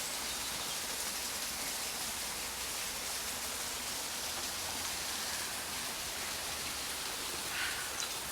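Steady patter and splash of water dripping and trickling down a mossy rock face, from water seeping through the ground and moss.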